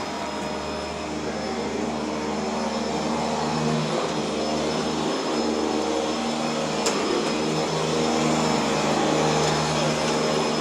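Elevator car in motion: a steady mechanical hum with several steady tones, slowly getting a little louder, and a single sharp click about seven seconds in.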